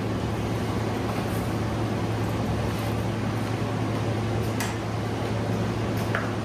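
Steady low mechanical hum, like a fan or motor running, with a couple of faint clicks in the second half.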